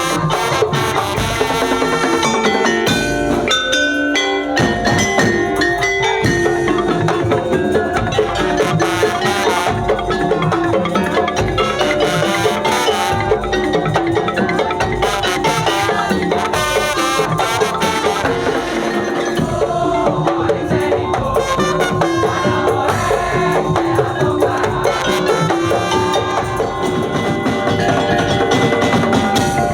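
Madurese traditional gendang ensemble playing without a break: drums under a dense run of fast, ringing pitched notes.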